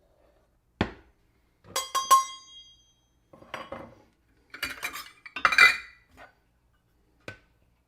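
Kitchenware clinking and clattering while flour is measured out: a knock, a ringing clink about two seconds in, then scraping and a run of clatters from cups and bowls, and one last light knock near the end.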